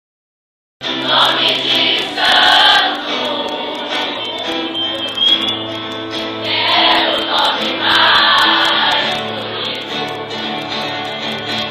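Choir singing with musical accompaniment, held notes rising and falling in waves. It starts abruptly after under a second of dead silence at the very start.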